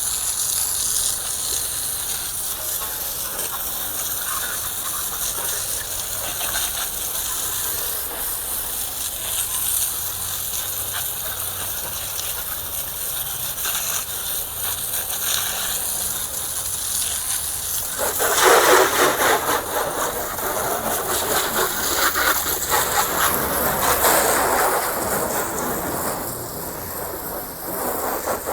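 Water spraying onto a car during a wash, a steady hiss that grows louder and fuller for several seconds about two-thirds of the way in.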